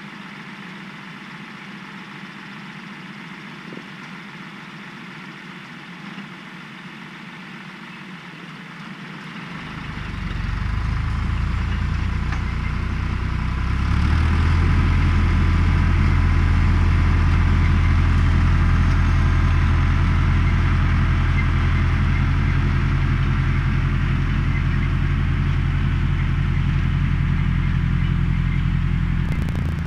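John Deere 1030 tractor's three-cylinder diesel engine, running low and quiet at first, then about ten seconds in rising in two steps to a loud, steady run at higher revs.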